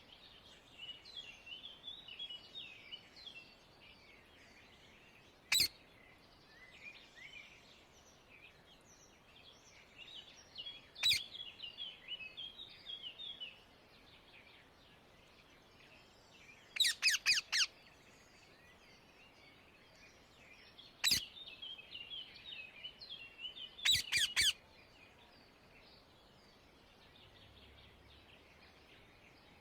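Rose-ringed (Indian ringneck) parakeets calling: loud, shrill screeches, some single and some in quick runs of three or four, with softer chattering between them.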